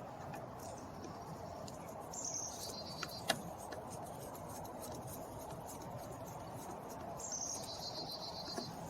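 A bird's short, high trilling call, heard twice about five seconds apart, each time dropping a step in pitch, over a faint steady background. A couple of light clicks come about three seconds in.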